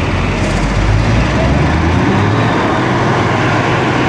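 Fendt Favorit 824's MAN six-cylinder diesel engine running loud and steady under load on a dynamometer; its low engine note shifts about a second in.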